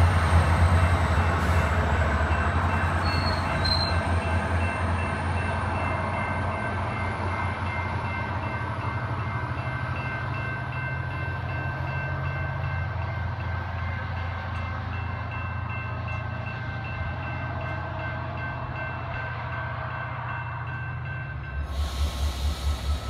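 SunRail diesel locomotive and bi-level coaches pulling away, the engine's low hum fading steadily as the train recedes. About two seconds before the end it switches to a pulsing low rumble of CSX freight locomotives rolling past.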